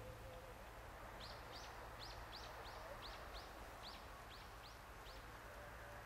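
A songbird repeating one short, high note about three times a second, some dozen times in a row, starting about a second in and stopping near the end, over a faint steady background hiss.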